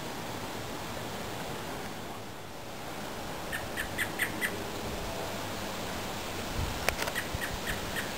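A bird calling in two quick runs of short, sharp chip notes, about five notes each, over a steady hiss.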